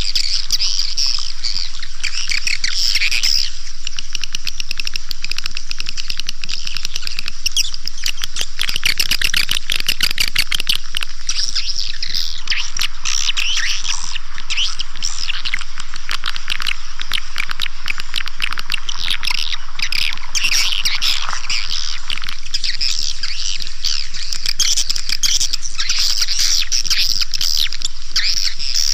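Recorded swiftlet calling sound: dense, continuous twittering chirps from a flock of edible-nest swiftlets, played loud and steady as a lure track for a swiftlet house, with a faint low hum underneath.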